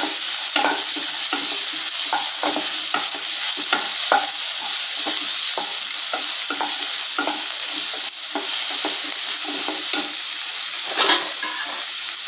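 Chopped onions and peanuts frying in oil in a nonstick kadai with a steady sizzle, while a spatula stirs them, scraping the pan about twice a second.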